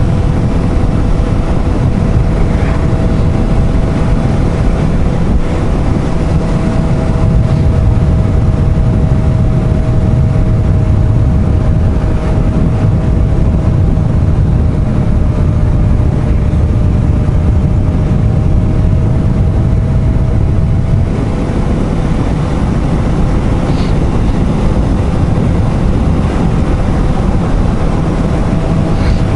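Motorcycle riding at a steady cruise: a steady engine drone with two held tones, under heavy wind rumble on the rider's microphone.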